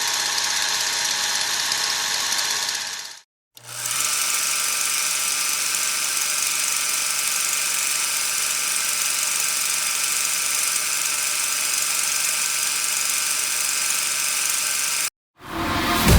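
Steady electric buzzing with a low hum under a loud hiss, like a small motor running, heard twice as separate clips: the first stops about three seconds in, and the second starts just after and cuts off suddenly near the end. Music starts right at the end.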